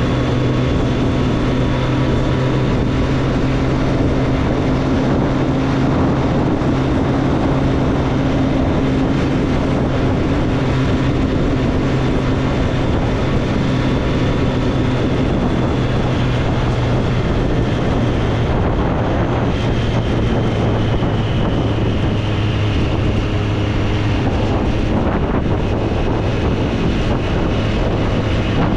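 Triumph Street Triple's inline three-cylinder engine running steadily under way, heard from the rider's position with wind noise on the microphone; the engine note drops a little about two-thirds of the way in.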